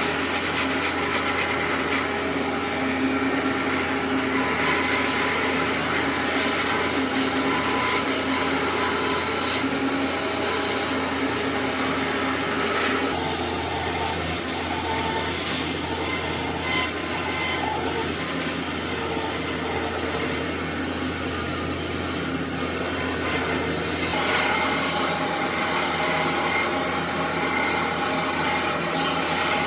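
Electric power tool running steadily against wood, a motor hum under a rasping, sawing or sanding noise. The tone of the rasp changes twice, as the pressure or the cut changes.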